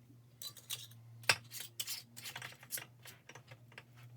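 Metal canning lids and screw bands being fitted and twisted onto glass jars: a run of small clicks and scraping, with one sharp click about a second in.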